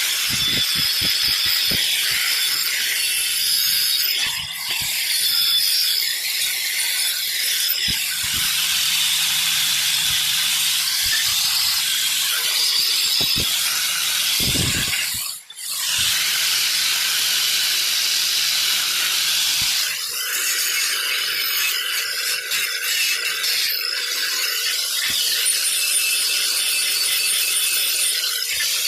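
Steady loud hissing with scattered light clicks, cutting out briefly about halfway through, then carrying on.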